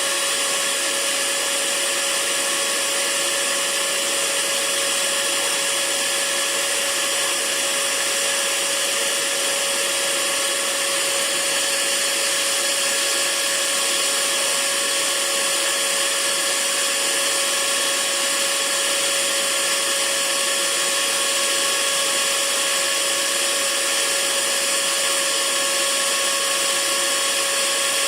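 Hair dryer running steadily: an even, hissing rush of air with a constant motor whine.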